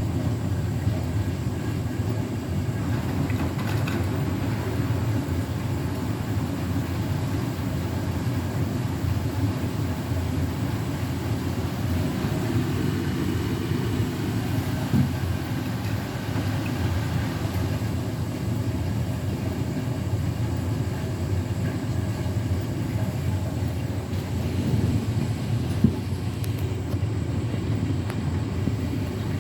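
Beko WTK104121W washing machine drum turning with a load that looks unbalanced, a steady low rumble with a couple of brief knocks.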